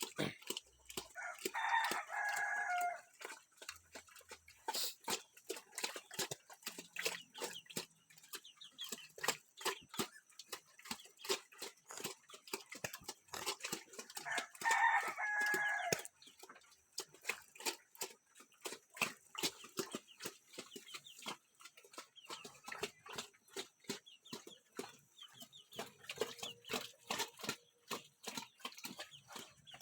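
A rooster crows twice, each crow about two seconds long, once near the start and again about halfway through. Under it runs a steady stream of rapid wet clicks and smacks from a pig eating feed out of a bucket.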